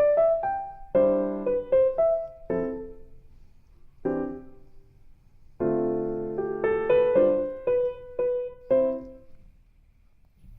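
Solo piano music: struck chords and single melody notes that ring and fade, with short pauses between phrases.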